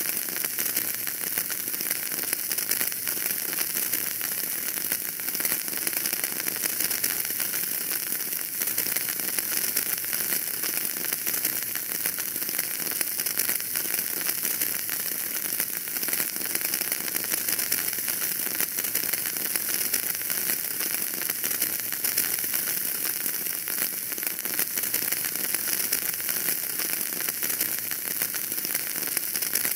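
Wood fire burning in a fireplace: a steady hiss with dense, small crackles and pops throughout.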